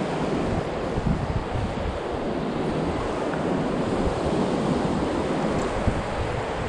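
Ocean surf washing ashore, with wind buffeting the microphone in a low, fluttering rumble.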